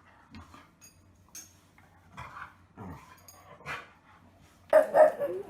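A dog vocalising: scattered soft sounds at first, then a few loud barks near the end.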